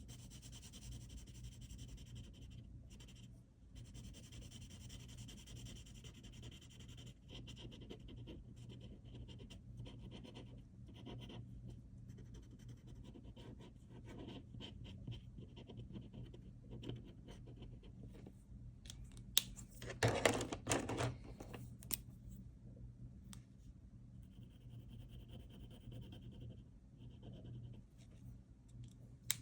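Pen strokes scratching and rubbing across paper in short runs, with a cluster of louder strokes about twenty seconds in, over a steady low hum.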